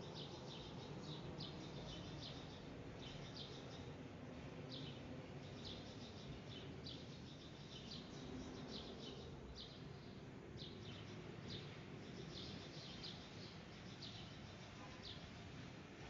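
Small birds chirping, short high chirps repeated every second or so, faint over a steady low background rumble.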